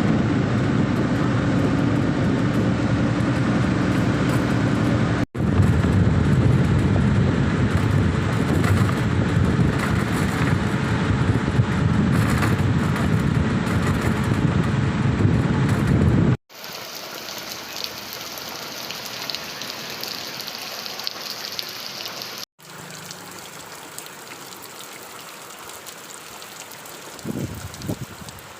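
Rain falling, in several short cuts. For the first sixteen seconds it is loud, with a heavy low rumble beneath it. After that it is quieter and hissier, with a brief low thump near the end.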